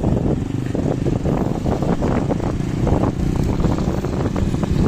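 A moving vehicle running steadily during a ride, with a continuous low rumble of engine and road noise.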